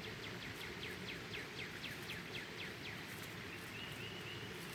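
A songbird singing a run of about a dozen quick down-slurred whistled notes, about five a second, lasting some two and a half seconds. A second, thin high trill follows about a second before the end.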